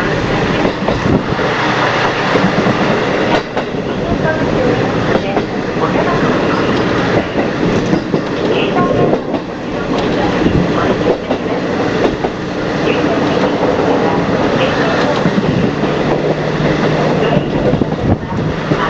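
KiHa 40 diesel railcar running on the line, heard from inside the carriage: steady running noise with the wheels clacking over the rail joints. A low steady engine tone comes up near the end.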